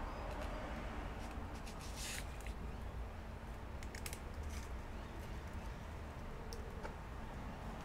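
Faint rustling and light clicks of hands handling double-sided adhesive tape strips, over a steady low hum.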